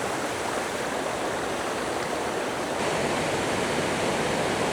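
Steady rush of a rocky mountain stream running over cascades, a little louder from about three seconds in.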